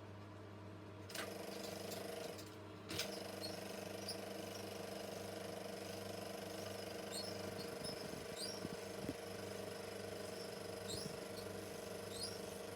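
Super 8 film projector switching on about a second in and running with a steady mechanical hum. Brief high squeaks recur over the hum.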